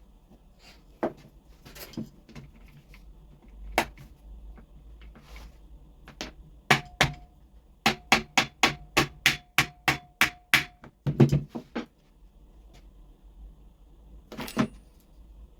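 Metal being struck with a hand tool, like a small hammer tapping: a few scattered knocks, then a quick regular run of about a dozen taps, roughly four a second, each with a short metallic ring, and a couple of heavier knocks after it.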